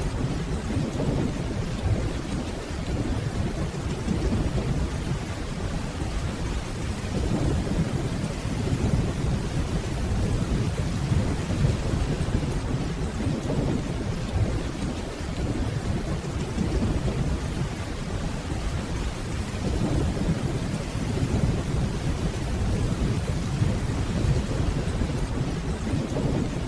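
Steady rainfall with a low, rolling rumble of distant thunder that swells and eases.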